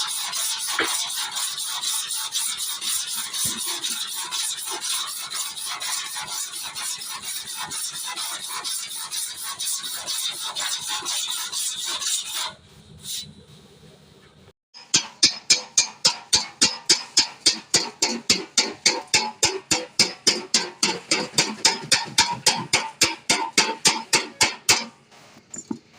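Fast, scratchy rubbing on sheet metal for about twelve seconds, like sanding or filing a car body panel; then, after a short pause, a hammer striking the panel in a steady run of sharp blows, about three a second, during dent repair.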